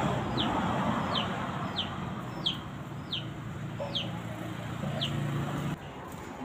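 A bird peeping: a short high note that falls in pitch, repeated about every two-thirds of a second. Under it runs a low steady rumble that cuts out near the end.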